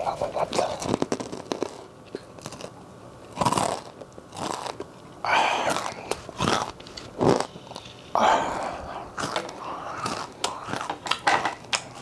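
Close-up crunching and chewing of crispy deep-fried goose barnacles in chicken-style batter: a long run of sharp crunches and bites.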